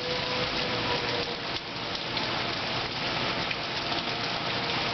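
Rain falling steadily in a thunderstorm, an even wash of noise with no breaks.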